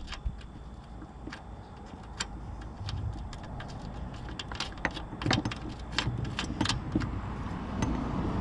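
Scattered light metallic clinks and taps of tools and bolt hardware being handled during mower assembly, several in quick succession in the second half.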